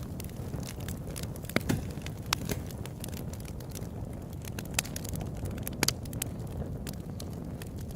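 Open-air wood campfire burning with a steady low rumble and irregular sharp crackles and pops, a few louder snaps scattered through.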